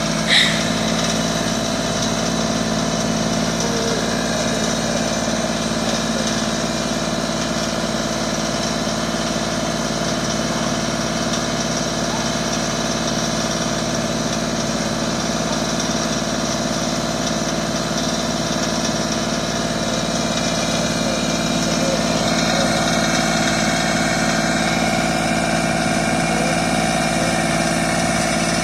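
Farm tractor engine running steadily, getting a little louder about 22 seconds in. A brief sharp sound right at the start.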